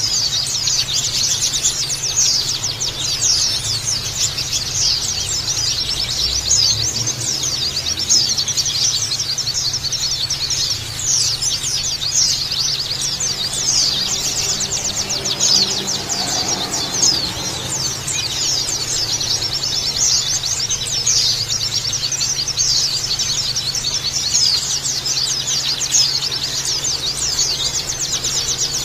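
A crowd of white-eyes (pleci) chirping and twittering together in dense, rapid, high-pitched chatter, with a steady low hum underneath.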